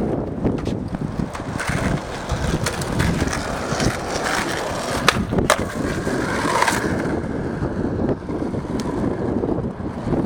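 Skateboard wheels rolling over pavement with a continuous rough rumble, and two sharp clacks from the board about five seconds in.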